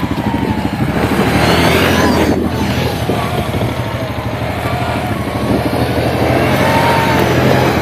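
Quad bike (ATV) engine picking up from a slow, pulsing run and revving hard, its revs rising and falling as it is driven around.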